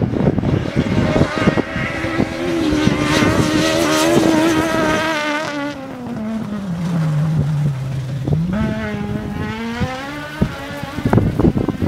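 Race car engine under hard driving: the engine note climbs and holds, drops low about seven seconds in, then picks up again, with crackling pops throughout, thickest near the end.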